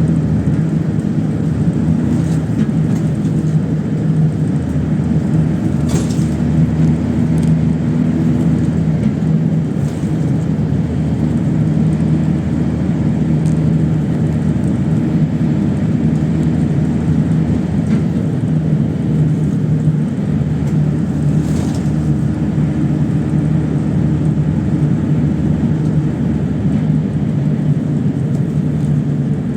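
PAZ-32054 bus under way, heard from inside: a steady engine drone whose pitch shifts a few times as the speed changes, with a couple of light rattles.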